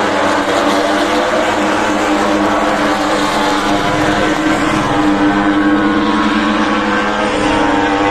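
MotoGP racing motorcycles' four-cylinder engines running at high revs around the circuit, several engine notes overlapping and sliding slowly in pitch as the bikes accelerate and brake.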